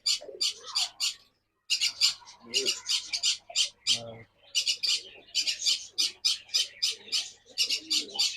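A group of African lovebirds chattering with shrill, rapid chirps, several a second, broken by a short pause about a second and a half in.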